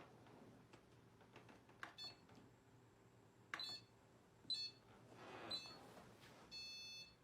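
Faint sound: four short clicks, each with a brief high ringing tone, then a longer steady beep near the end.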